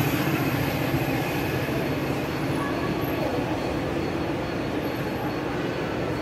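A train running with a steady rumble.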